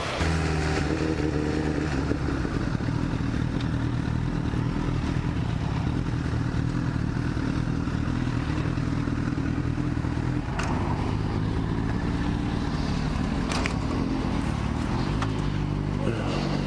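Motorcycle engine, the Honda CBR1000RR's inline-four, running steadily with an even, level note that shifts slightly near the end. Two faint clicks sound during it.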